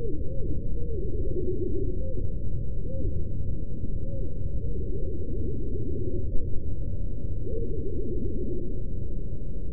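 Low, muffled bird calls: short arching notes repeated in runs over a steady low rumble.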